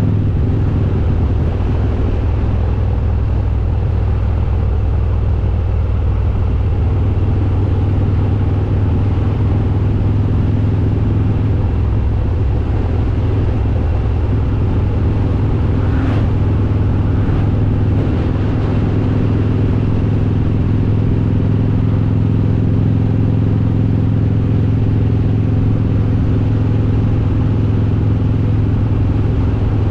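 Harley-Davidson Road King's S&S 95-cubic-inch V-twin with Super Stock heads running at a steady cruise, its engine note holding even throughout.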